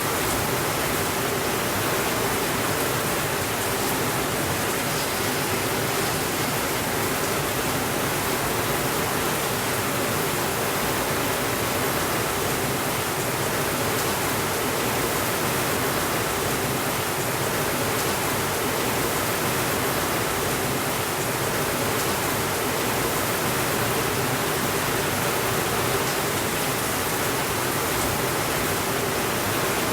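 Steady rainfall, an even hiss that does not change in level or let up.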